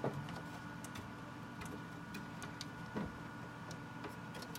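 Scattered light clicks and taps from handling a console's plastic casing and parts, with a soft knock about three seconds in, over a steady low hum.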